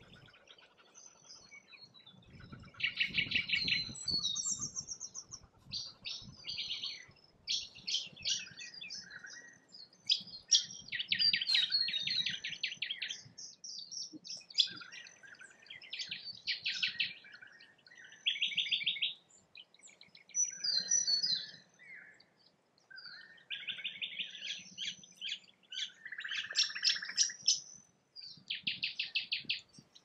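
Small birds singing and chirping: one burst after another of rapid, high trilled notes, each about a second long with short gaps between, mixed with some lower warbling notes.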